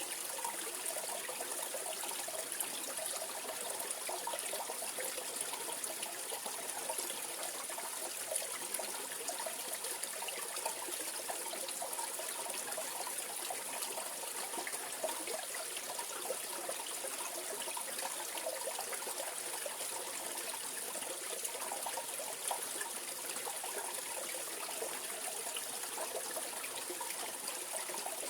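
Mountain valley stream: water running and trickling over rocks, a steady, unbroken babble.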